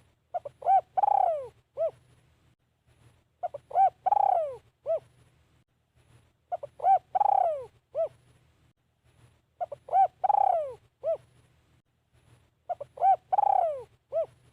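Spotted dove cooing its phrase five times, about every three seconds. Each phrase is two or three short coos, a longer coo that falls in pitch, and a short closing coo.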